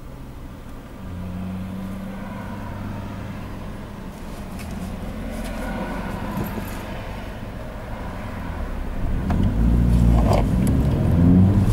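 Opel Astra Coupé engine idling with a steady low hum, heard from inside the car, then revving and getting louder as the car pulls away from the lights near the end.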